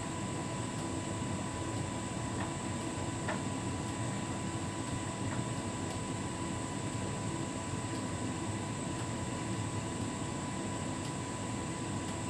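Hotpoint heat pump tumble dryer running its cool-down phase: a steady whir of the turning drum and fan with a faint thin whine, and a few light ticks.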